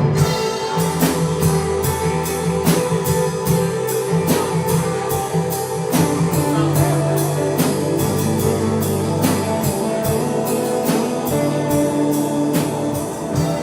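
Live worship band playing an instrumental passage, guitar over a drum kit keeping a steady beat of about three hits a second.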